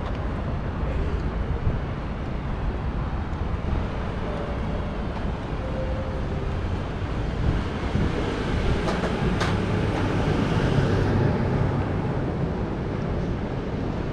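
Passenger train running with a steady low rumble. Higher hiss swells through the middle, with a single sharp click partway through.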